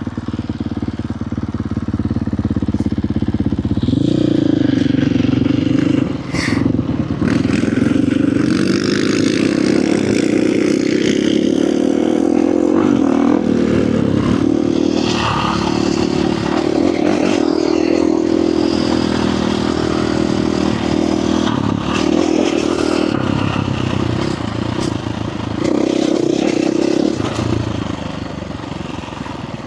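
Dirt bike engine running under throttle as the bike is ridden, its pitch rising about four seconds in and easing off briefly a few times, with scattered knocks and rattles from the bike.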